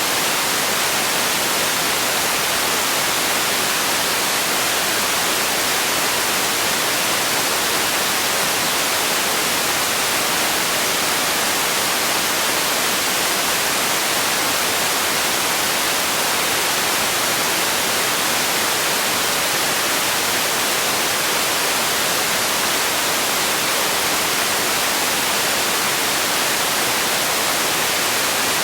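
Steady synthetic white noise: an even, unchanging hiss across all pitches, brightest in the treble.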